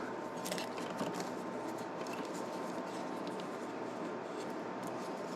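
Steady background hiss with a faint steady high tone, and a few faint light clicks in the first second or so as the pliers and wire are handled.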